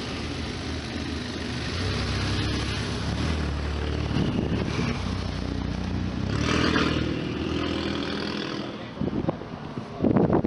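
A car engine and exhaust running at a car meet, getting louder over several seconds, loudest about two-thirds of the way through, then fading. A few short, sharp sounds come near the end.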